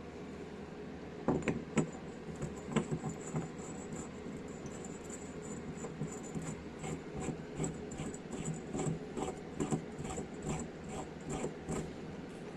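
Hydraulic jack parts being handled and fitted, making a few sharp clicks and then a run of quick light clinks, over a steady background hum.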